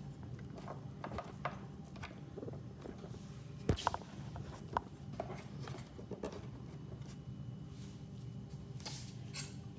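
Quiet kitchen handling sounds: scattered light clicks and taps, with one sharper knock about three and a half seconds in, over a steady low hum.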